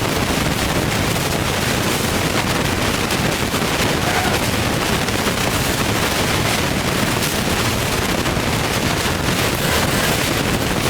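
Turbocharged Ford Boss 302 V8 running steadily on its first start after the turbo kit install, a loud, even stream of rapid exhaust pulses.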